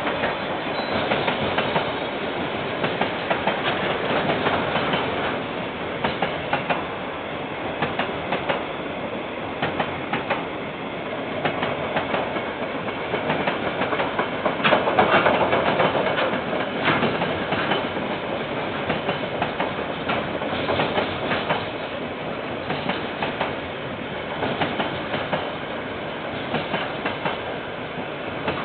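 A train rolling past, its wagons' wheels clacking over the rail joints in a continuous rumble with many sharp clicks, swelling a little around the middle. It is heard through a security camera's microphone, so it sounds dull and lacks highs.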